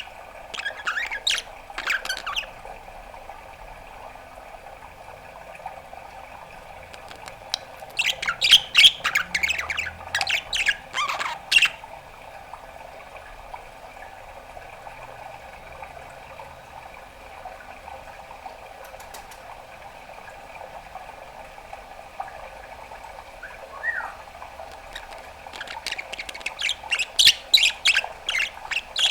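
Pet budgerigar chattering in runs of rapid clicks, chirps and squawks: a short run at the start, a longer one a third of the way in, and another building near the end, with pauses between. A steady faint hum sits underneath.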